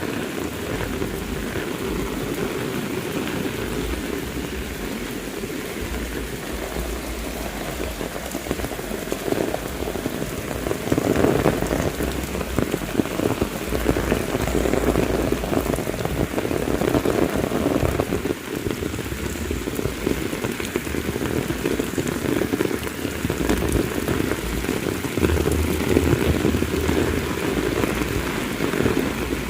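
Heavy rain falling steadily, growing louder for a stretch from about ten seconds in.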